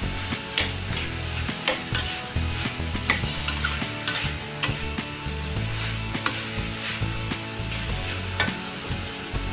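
Ground pork with diced potato and carrot sizzling in a stainless steel wok while a metal spatula stirs and scrapes it, clacking against the pan every second or so.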